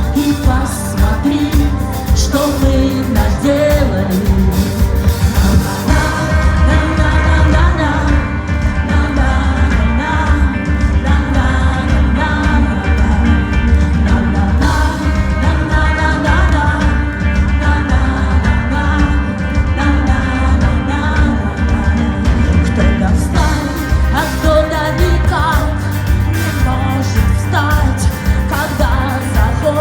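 Live rock-pop band playing with a woman singing lead, heavy bass and drums underneath; the cymbals and high end drop back for a stretch in the middle, then return.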